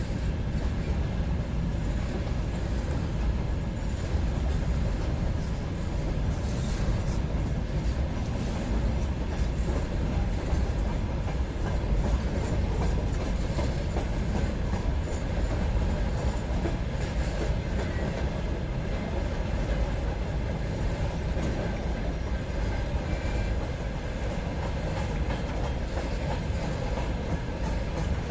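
Train rolling past on the track, a steady rumble of wheels on rails.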